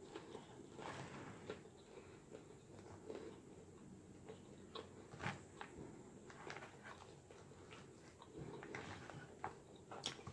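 Faint close-up chewing of a mouthful of salad, with scattered small clicks as a fork picks through a glass salad bowl.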